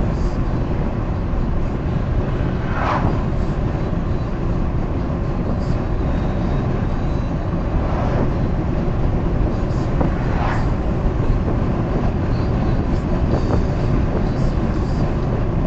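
Steady low rumble of tyre and engine noise inside a car cruising on a highway.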